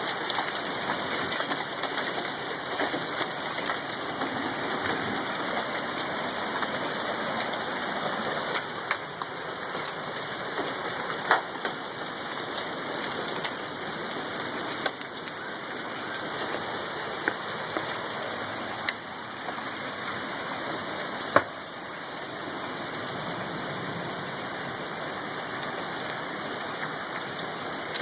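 Hailstorm: a steady, dense rush of falling rain and hail, with a few scattered sharp knocks of stones striking. The sharpest knock comes about three-quarters of the way through.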